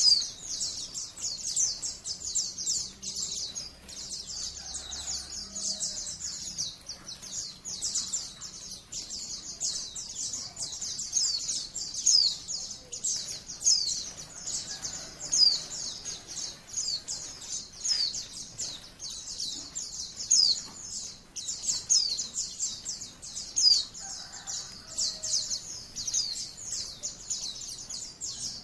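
White-eye (Zosterops, 'pleci') singing a rapid, unbroken stream of high-pitched chirps and twitters, the fast continuous 'ngalas' song that keepers play as a tutor recording.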